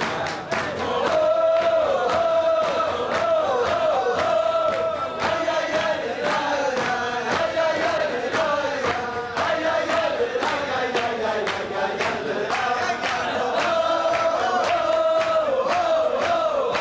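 A crowd singing a wordless Hasidic niggun in unison, the melody rising and falling, over a steady beat of sharp claps or stamps from the dancing.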